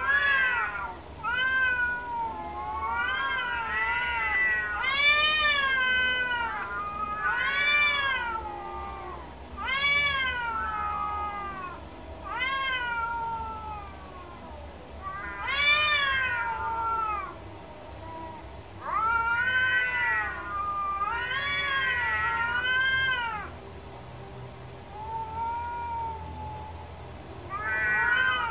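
A cat meowing over and over: drawn-out calls that rise and then fall in pitch, coming about every two seconds, some running into each other.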